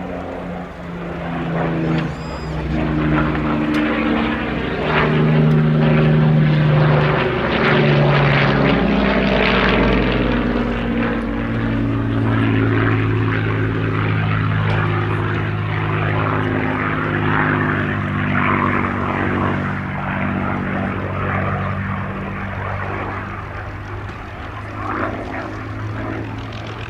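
Rolls-Royce Merlin V12 piston engine of a Second World War propeller fighter flying a display. The engine note changes pitch as the aircraft manoeuvres and is loudest in the first half, then settles lower and steadier.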